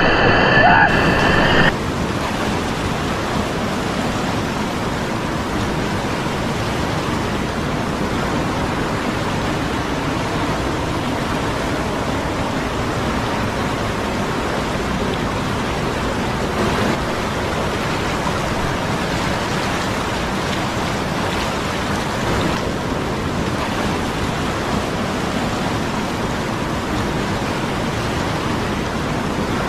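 Steady rushing of a fast mountain river, a constant even noise with no breaks.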